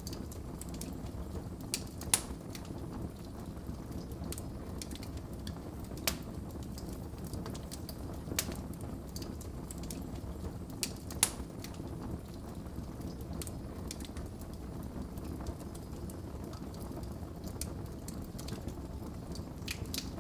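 Wood fire crackling in a fireplace: a steady low rumble with sharp pops at irregular intervals, the loudest about two seconds in and about eleven seconds in.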